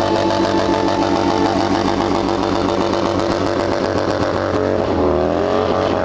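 Motorcycle engine running at a steady pitch that dips briefly about five seconds in and then rises again.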